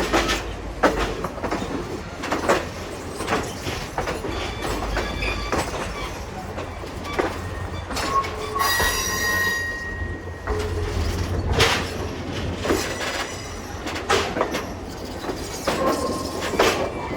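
Railroad car wheels rolling slowly through a yard, heard from on board: a steady low rumble with irregular clacks and knocks over rail joints and switches. The wheel flanges squeal on the curves, with one long high squeal about halfway through and shorter ones before it and near the end.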